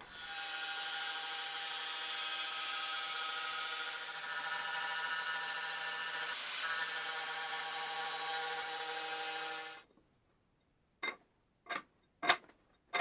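A power tool runs steadily with a mix of even tones and a hiss for about ten seconds, then cuts off suddenly. After a brief pause come three short, sharp strokes of a hand scraper on the cast-iron lathe bed.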